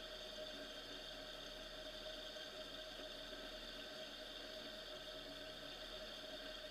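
Off-road Jeep's engine idling faintly and steadily, under an even hiss.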